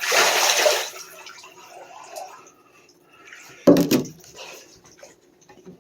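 Water splashing and dripping in a bathtub with a wet dog in it. A brief loud rush of water at the start, then scattered drips and light splashes, and one sudden loud splash or thump a little past halfway.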